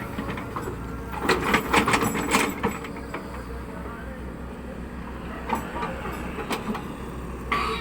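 Caterpillar 307E2 mini excavator's diesel engine running with a steady low hum. A burst of clattering knocks comes about a second in, and single knocks follow near the end.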